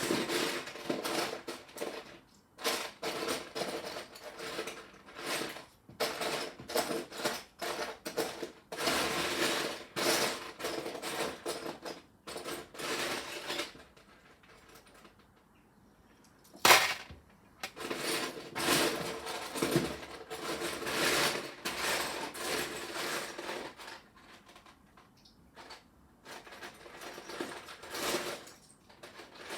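Small plastic LEGO pieces clattering and rattling as hands rummage through a pile of loose parts, in irregular bursts with short pauses, and one sharp click about halfway through.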